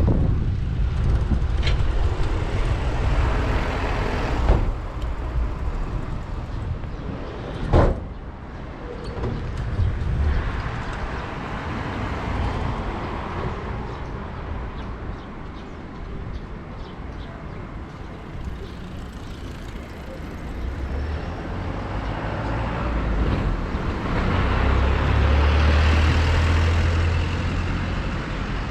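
Street traffic heard from a moving bicycle: vehicles passing under a continuous low rumble, a sharp knock about eight seconds in, and a louder vehicle with a low drone passing near the end.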